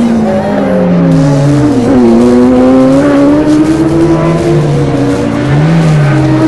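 Rally car engine driven hard, its pitch dropping and climbing again several times as it goes up and down the revs.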